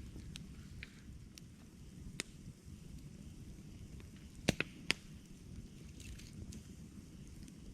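Wood campfire crackling: a low steady rumble under scattered sharp pops and snaps, the loudest a cluster of three pops a little past halfway.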